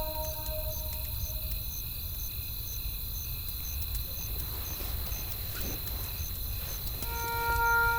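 A cricket chirping steadily, about two chirps a second, over the low rumble and faint scattered crackles of a wood campfire. Held musical notes die away in the first second or two, and new ones come in near the end.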